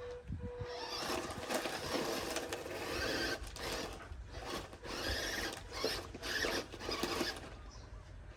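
RC truck's motor and drivetrain whining with its tyres scrabbling on dirt, in a series of throttle bursts about a second apart, easing off near the end.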